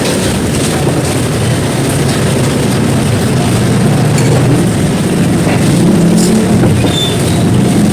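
Steady road traffic with vehicle engines running close by, a continuous low rumble.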